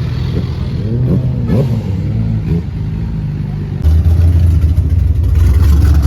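Car engines at a car meet, with a few rising and falling revs, then a much louder low, crackling exhaust rumble that starts suddenly about four seconds in.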